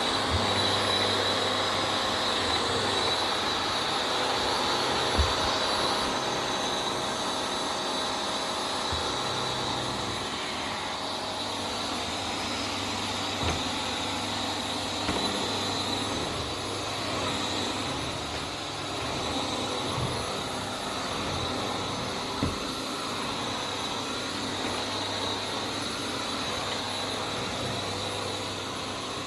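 Vax Air Steerable Max upright vacuum cleaner running steadily with a high motor whine as it is pushed over the floor, with a few light knocks.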